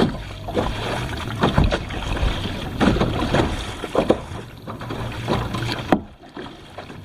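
Kayak paddle strokes splashing in the water, one every second or so, easing off about six seconds in.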